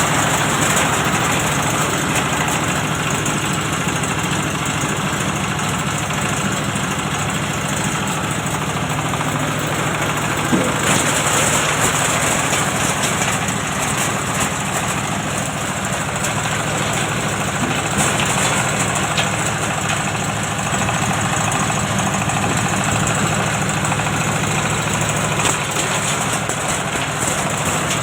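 Engine-driven oil palm loose-fruit thresher running steadily: an even engine drone with a single short knock about ten and a half seconds in.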